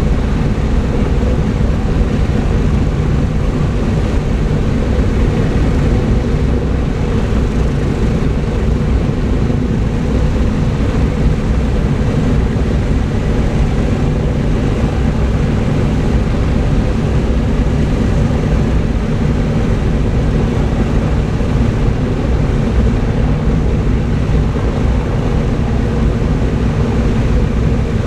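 Lockheed L-1049 Super Constellation's four Wright R-3350 18-cylinder radial piston engines running, a loud, steady drone that holds the same pitch throughout.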